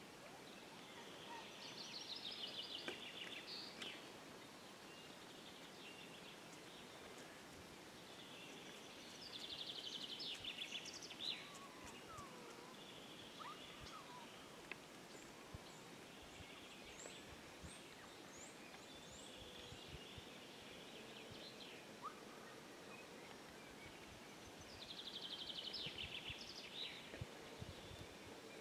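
A songbird singing a short, fast-trilled phrase three times, about ten to fifteen seconds apart, with fainter chirps from other birds in between, over a quiet outdoor hiss.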